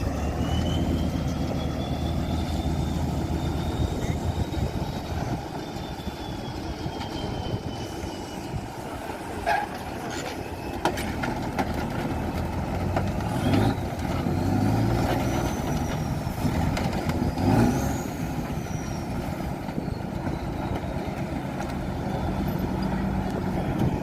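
Heavy Tatra trial truck's diesel engine working under load, with a high whine that rises and falls twice. Several sharp knocks and bangs come in the middle.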